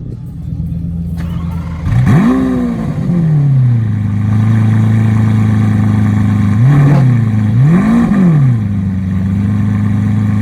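Lamborghini Murciélago's V12 engine idling and being revved: a rise and fall in pitch about two seconds in, a short blip near seven seconds, then a second rev about eight seconds in, each time dropping back to a steady idle.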